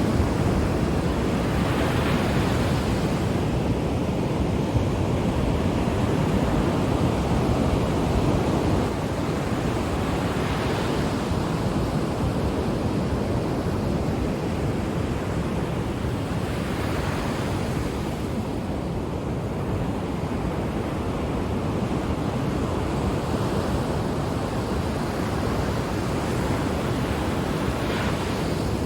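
Ocean waves breaking on the shore: a continuous surf roar with recurring swells as each wave breaks, every several seconds, and some wind on the microphone.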